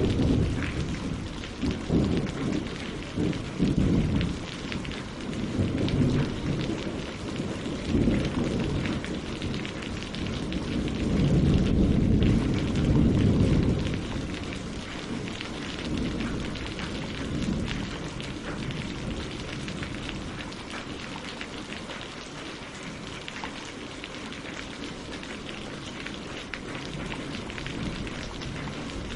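Steady rain falling on leaves and lake water, with low rumbles of thunder that swell several times in the first half, loudest about eleven to fourteen seconds in, and then die down.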